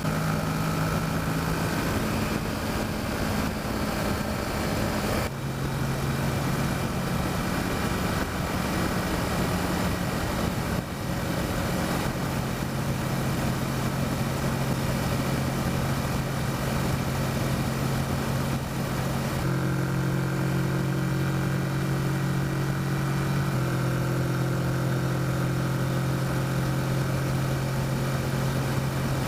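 Kawasaki Versys motorcycle engine running at cruising speed under steady wind rush, the engine note stepping to a new pitch a few times.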